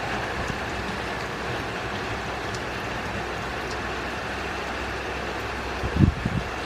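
Steady hiss of falling rain. A short, loud low thump comes about six seconds in.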